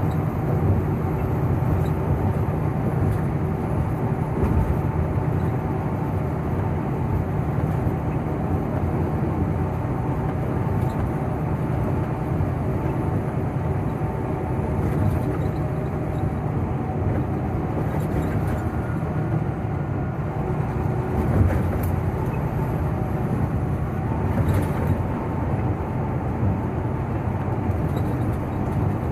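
A moving road vehicle's engine and road noise: a steady, even drone with a few faint clicks.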